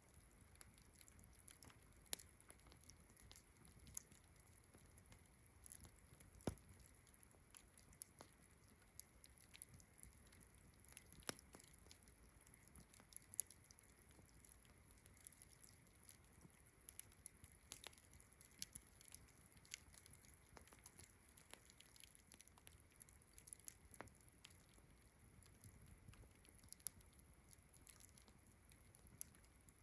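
Faint campfire crackling: irregular small pops and snaps from the burning wood, a few sharper ones standing out. Behind it runs a steady, faint high chirring of crickets.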